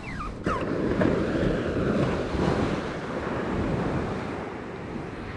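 Sea surf washing on the beach with wind buffeting the microphone, a steady rushing noise. Two short falling squeaks sound in the first half-second.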